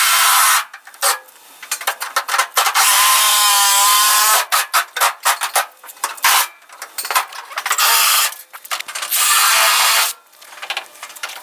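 Reciprocating saw (Sawzall) cutting through a Pontiac Firebird's steel roof structure, running in loud stretches that stop and start. The motor's pitch wavers during the longer cut about three to four seconds in.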